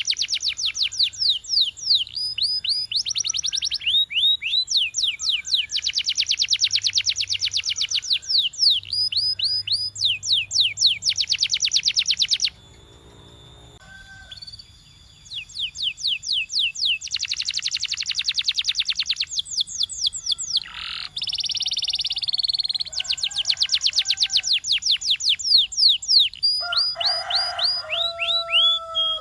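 Canary singing: rolls of quick falling notes repeated many times a second, in bursts of a few seconds. There is a brief pause about halfway through and a short buzzy held note later on.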